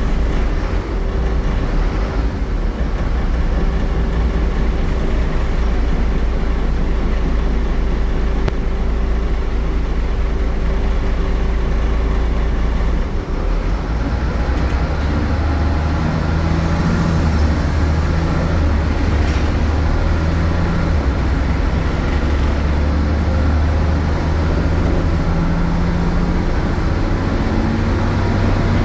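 MAN A76 Lion's City city bus engine running loudly and steadily. About halfway through its note changes to a deeper, stronger drone whose pitch climbs, as under acceleration.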